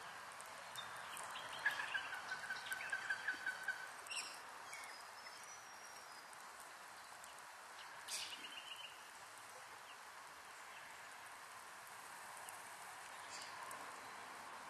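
Wild birds calling over a steady outdoor hiss: a run of quick repeated notes lasting about two seconds near the start, then a short chattering call about eight seconds in, with a few faint high whistles.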